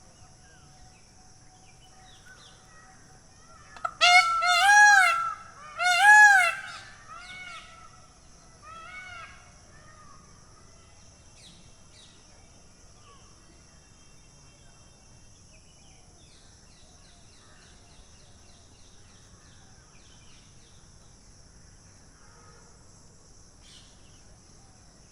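Peacock giving two loud, ringing calls that rise and fall in pitch, about four and six seconds in, followed by two or three fainter calls over the next few seconds.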